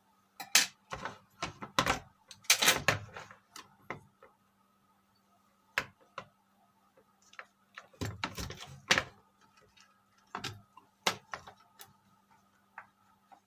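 Workbench handling noises: scattered clicks and knocks, the densest about half a second to 3 seconds in and again around 8 to 9 seconds in, over a faint steady hum.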